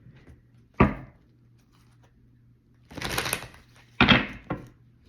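Tarot cards handled on a table: a sharp knock, a brief rustle of cards about three seconds in, then two more knocks close together.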